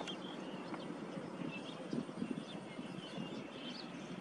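Outdoor field ambience: faint, short chirps of small birds over a steady background hiss, with a few soft low bumps or rustles about two seconds in.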